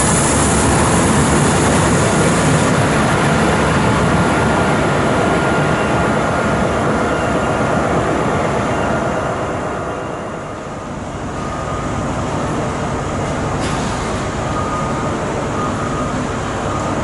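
A train running past: a loud, steady rumble and hiss that dips briefly about ten seconds in, then carries on, with a faint thin whine in the last few seconds.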